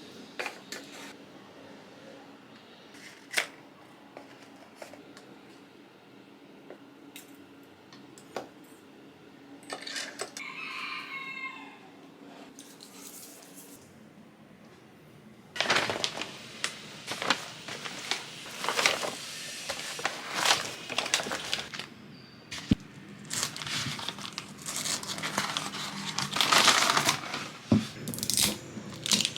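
Packaging being handled, with a few light clicks at first, then from about halfway through torn open and crinkled, with repeated sharp rips.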